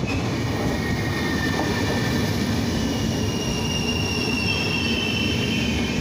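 Vivalto double-deck regional train coaches rolling past slowly with a steady wheel-and-rail rumble. A thin, high squeal from the wheels and brakes comes in about a second in and grows stronger as the arriving train slows.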